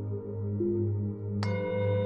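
Singing bowl humming low with a slow, wavering pulse; about one and a half seconds in, a higher-pitched metal instrument is struck and rings on in several steady tones.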